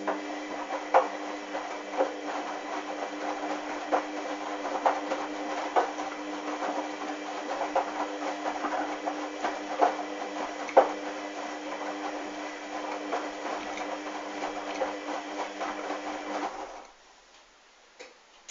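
Hoover washing machine drum turning a wash load of wet towels: a steady motor hum with irregular knocks as the load tumbles, stopping abruptly near the end as the drum pauses.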